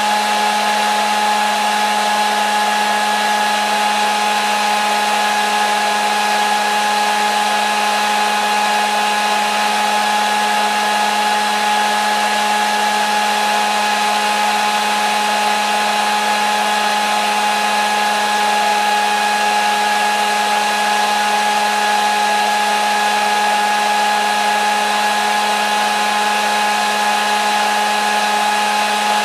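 Hair dryer running continuously at a constant speed: an even rush of blown air with a steady motor whine that never changes, played as white noise for a baby's sleep.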